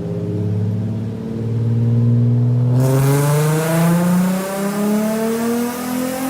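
Nissan 370Z's 3.7-litre V6 accelerating, its engine note climbing steadily in pitch. About three seconds in a hiss joins the sound and the note keeps rising.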